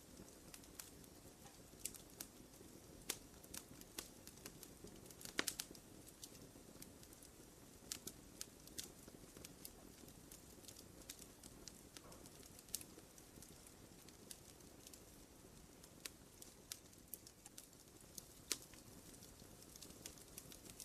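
Small wood fire crackling: irregular snaps and pops over a soft, steady rustle of the flames, with a few louder pops, the sharpest about five seconds in and near the end.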